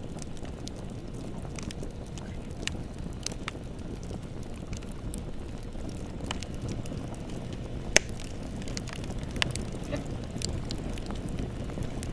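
Bonfire burning: a steady low rush of flames with scattered sharp crackles and pops, one much louder pop about eight seconds in.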